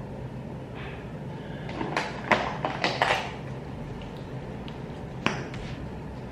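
Small hard clicks and taps of makeup containers and tools being handled: a quick cluster of clicks about two to three seconds in, and one sharp click near the end, over a low steady hum.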